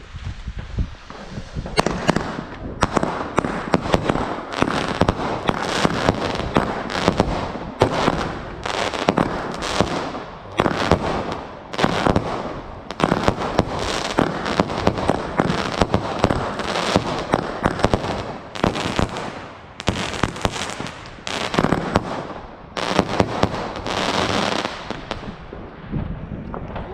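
Fireworks and firecrackers going off in quick succession, a dense crackling packed with sharp bangs that starts about two seconds in and keeps going, with brief lulls.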